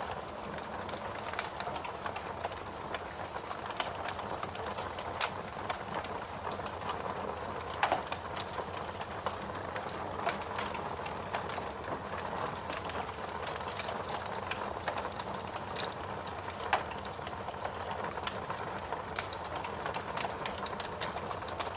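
Log fire burning in a fireplace: a steady hiss and rustle of flames with frequent small crackles and occasional sharper pops of the wood.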